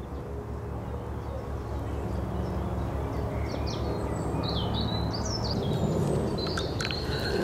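Small birds chirping in short rising and falling calls, most of them a few seconds in, over a steady low rumble, with a few sharp clicks near the end.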